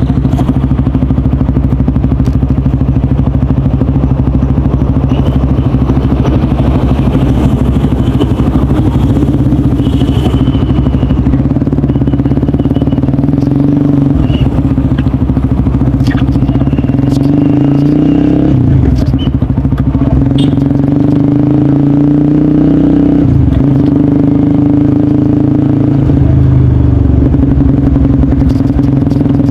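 Honda CBR150R's single-cylinder four-stroke engine running through an aftermarket DST exhaust, holding a steady note, with its pitch dipping briefly twice past the middle.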